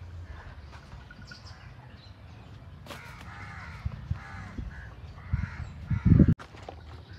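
A bird calling repeatedly, about six calls in quick succession from about three seconds in, over a steady low background. Near the end comes a brief, loud low rumble that cuts off sharply.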